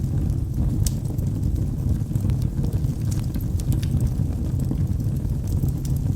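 Log fire burning with a steady low rumble and scattered sharp crackles and pops, one of the clearest about a second in.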